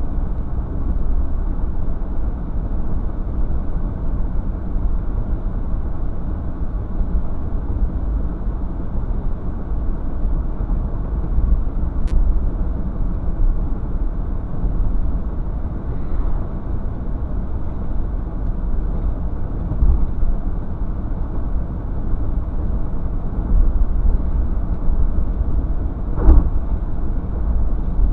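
Steady low vehicle rumble with no clear engine note, like road noise from a moving car, with a single short knock near the end.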